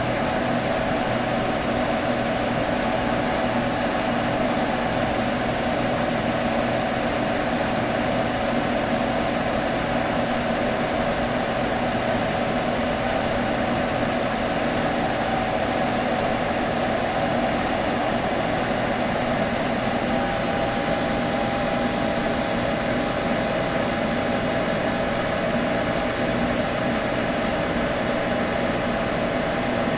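A computer humming steadily: fan noise with a few constant tones. A slightly higher tone joins about two-thirds of the way through.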